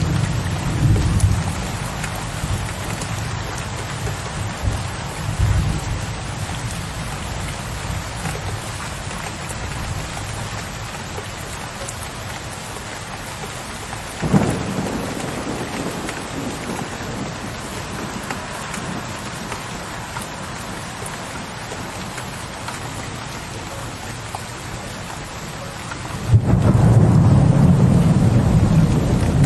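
Thunderstorm: steady rain with thunder. A low rumble fades over the first few seconds, a sharp thunder crack comes about halfway through, and a loud low roll of thunder begins near the end.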